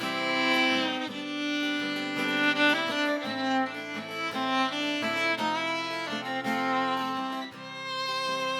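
Fiddle playing a slow melody over guitar: the instrumental introduction of a slow song, with no singing yet.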